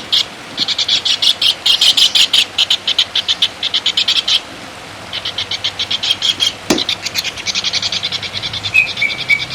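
A songbird giving a fast chattering trill of short, high, clicking notes at about ten a second, in long runs with a brief break near halfway. A single sharp click sounds shortly before the end, and a short whistled note near the end.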